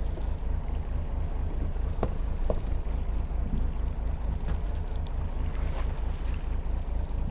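Fishing boat's engine running with a steady low throb, under wind and sea noise.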